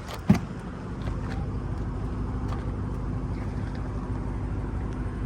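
A single sharp thump about a third of a second in, then a steady low rumble with a faint constant hum.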